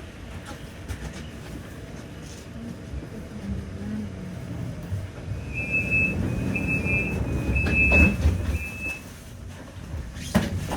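Tram running along the track, its low rumble building to a peak about eight seconds in, with a short run of four high-pitched squeals or tones in the middle and a couple of sharp clacks from the wheels over the rails.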